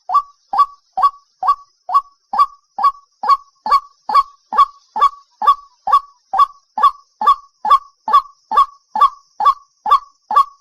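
White-breasted waterhen's repeated 'kwak' call, a lure recording: short downward-sliding notes about two and a half a second, in an even unbroken rhythm.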